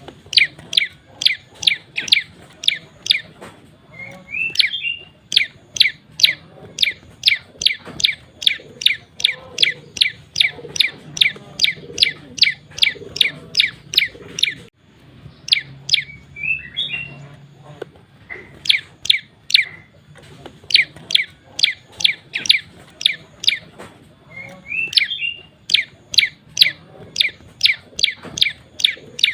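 Male prenjak lumut calling hard: long runs of sharp, quickly falling notes, about three a second, broken by short pauses and now and then a brief twittering phrase.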